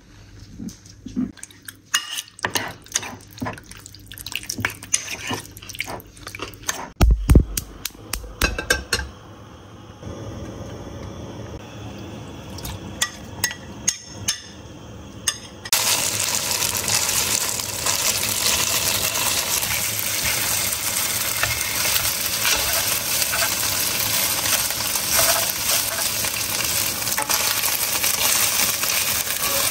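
A metal spoon stirring and clinking through marinated diced chicken in a bowl, with a heavy thump about seven seconds in. About halfway through, diced chicken breast starts sizzling steadily as it fries in a non-stick wok.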